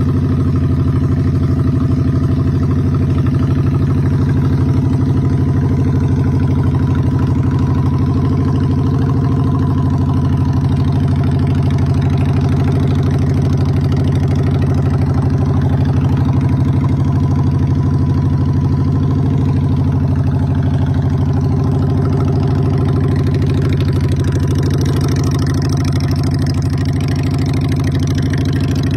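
Honda Shadow Spirit 750's V-twin engine idling steadily.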